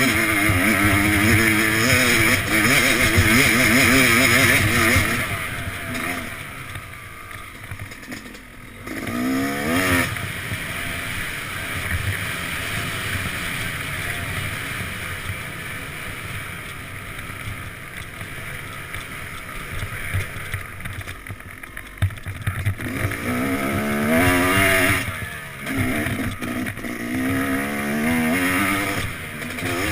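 Yamaha YZ250X two-stroke dirt bike engine revving up and down while riding. It runs hard for the first few seconds, eases to lower throttle through the middle with a short burst of revs, then revs hard again near the end.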